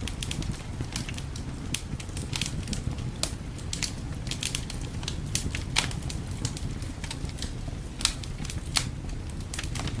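Fireplace fire crackling: irregular sharp pops and snaps, several a second, the strongest about six and eight seconds in, over a steady low rumble.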